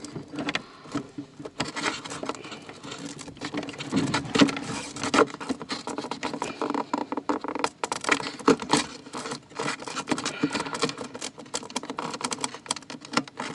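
Cable being worked through a hole by hand: a busy run of irregular scraping, rustling and small clicks, with a few louder knocks about four and eight seconds in.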